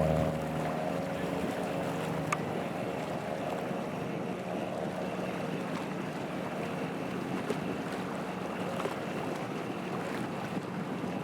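Motorboat engine running, its loud drone dropping away in the first moment and leaving a faint steady hum under wind noise on the microphone and moving water.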